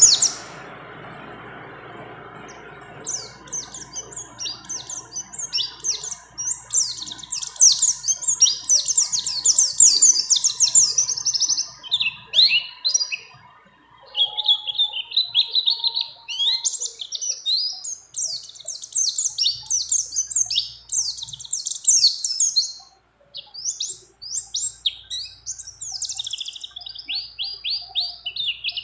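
A pleci (white-eye) singing a long, fast twittering song of high chirps and trills, broken by brief pauses about halfway and again a few seconds before the end.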